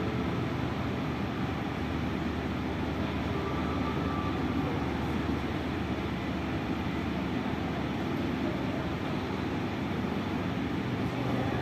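Ship's engines running with a steady, even low rumble and hum.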